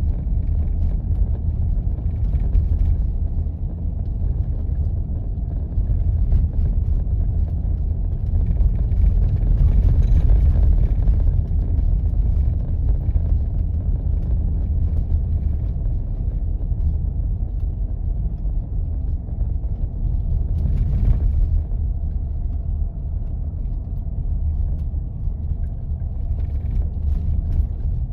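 A 4x4 driving slowly on snow-covered back roads: a steady low rumble of engine and tyres, with a louder bumpy stretch about ten seconds in and a brief knock a little past twenty seconds.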